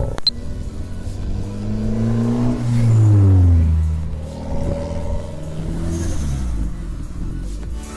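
Car engine revved twice, its pitch climbing and then falling each time; the first rev is the louder, peaking about three seconds in.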